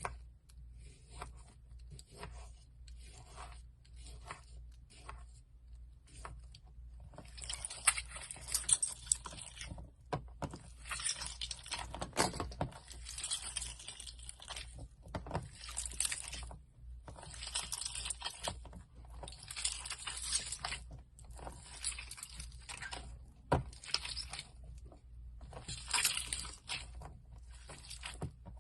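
Slime being squeezed and worked by hand, making wet, crunchy crackles and squishes. At first they come as short, quiet crackles about twice a second; from about seven seconds in they turn into longer, louder squelches every second or two.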